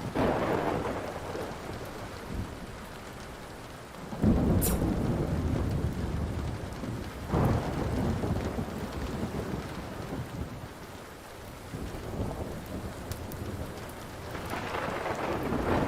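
Steady rain with rolling thunder: rumbles swell at the start, about four seconds in (the loudest), about seven seconds in, and again near the end. A few sharp pops, from a crackling wood fire, cut through the rain.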